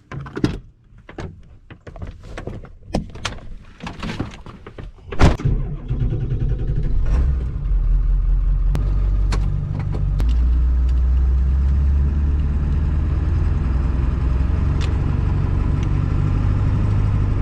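Getting into a car: clicks and knocks of the door and cabin for the first few seconds, then a door slams shut about five seconds in. The car then runs with a steady low rumble.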